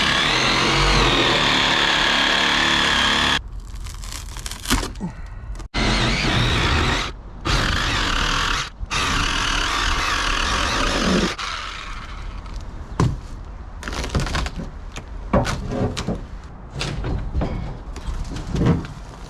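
A power tool running steadily for a few seconds and then cut off, followed by short stretches of work noise and scattered thunks and scrapes.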